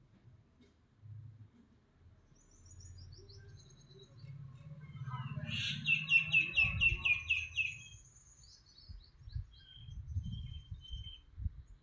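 Small birds singing and chirping: high, quick trills, and in the middle a loud run of about eight rapid notes. Under them are low rumbling knocks.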